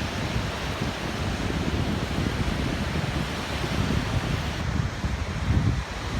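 Wind buffeting the microphone in uneven low gusts over a steady hiss of surf on a beach.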